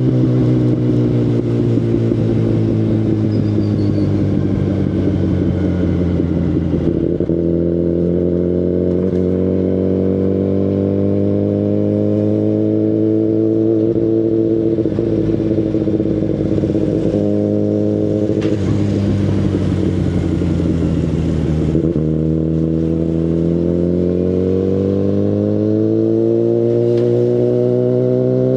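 2019 Kawasaki Ninja ZX-10RR inline-four running through an Akrapovic Evolution Line carbon full exhaust system at moderate revs. The engine note sinks slowly for the first part, breaks at a few gear changes, and climbs steadily from about two-thirds of the way through.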